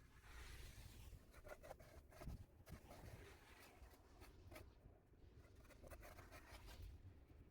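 Faint, distant scraping of a snow shovel clearing snow from a driveway, in short irregular strokes.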